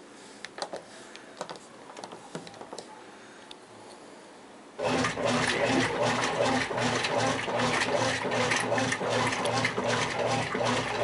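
A few faint clicks, then about five seconds in a Brastemp top-loading washing machine starts agitating suddenly: a steady motor hum with water and wet bath towels churning around the agitator.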